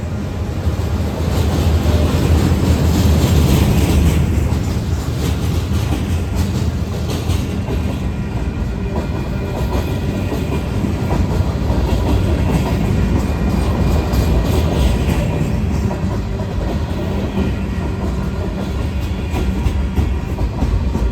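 Freight train cars rolling steadily past, a continuous heavy rumble with the wheels clacking over the rail joints.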